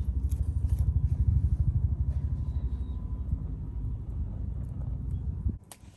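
A low engine-like rumble with an even, rapid pulse, which stops abruptly about five and a half seconds in.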